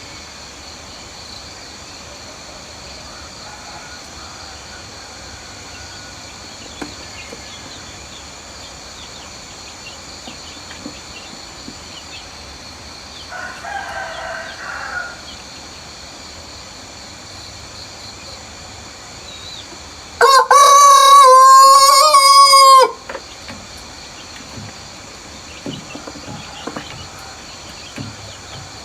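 Rooster crowing once, loud and about two and a half seconds long, about two-thirds of the way through. A fainter, shorter call comes around the middle, over a steady high-pitched background drone.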